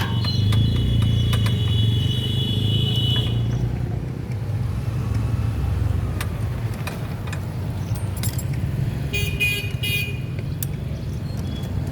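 Steady low rumble of road-vehicle engines, with a vehicle horn held for about three seconds at the start and a few quick horn toots about nine seconds in. Occasional light metal clinks.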